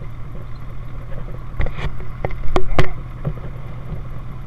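A 1931 Ford Model A speedster's four-cylinder engine running steadily as the open car rolls along a gravel lane. A quick cluster of sharp knocks and clacks comes about a second and a half in and lasts just over a second; it is the loudest sound here.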